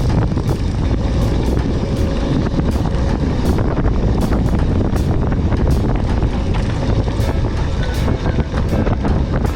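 Mountain bike riding over rough ground: a heavy, steady wind rumble on the microphone with frequent sharp rattles and knocks from the bike.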